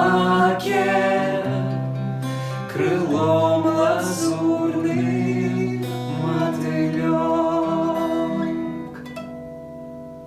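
Romance sung with acoustic guitar accompaniment. The last line is sung and held, and about nine seconds in the voice stops and a final chord rings out and fades.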